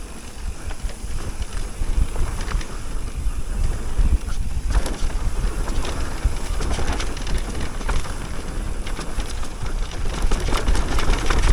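Wind buffeting the microphone, with mountain bike tyres rolling over a dirt trail and light clicks and rattles from the bike.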